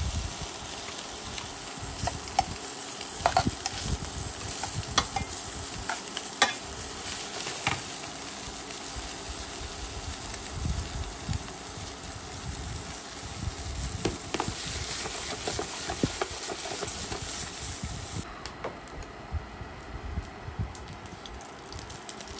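Smoked meatballs sizzling as they sear in a stainless steel pan to build a crust on their bottoms, with sharp clinks of metal tongs against the pan as they are turned. Near the end the sizzling stops.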